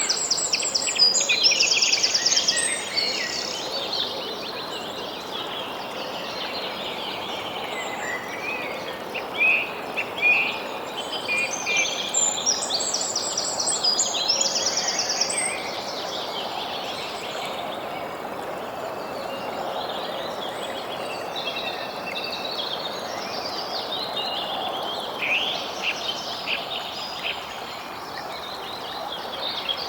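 Several songbirds calling and singing over a steady background hiss. Fast buzzy trills come near the start and again about halfway through, with scattered shorter chirps between them.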